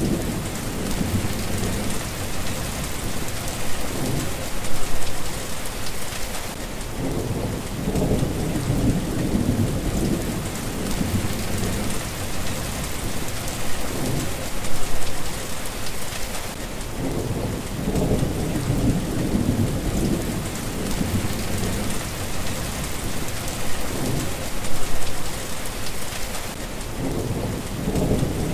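Steady rain falling, with low rolling thunder rumbling again and again underneath; the loudest swells come about every ten seconds.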